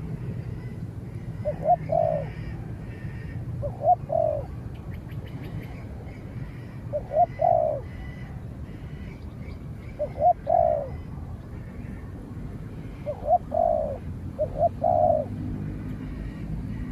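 Spotted doves cooing: six phrases about every two to three seconds, each one or two short notes followed by a longer coo. Faint chirps of small birds run underneath.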